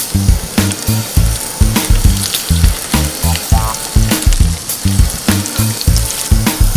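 Veggie burgers sizzling in hot oil in a frying pan, heard under funky background music with a bass line and a drum beat about twice a second.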